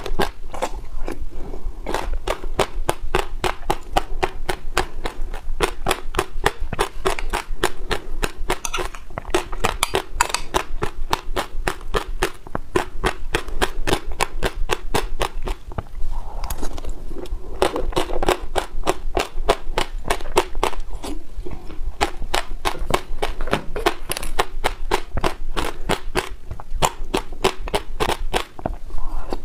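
Passionfruit seeds crunching between the teeth while a mouthful of seeds and yogurt is chewed: a fast, even crackle of about four or five sharp cracks a second.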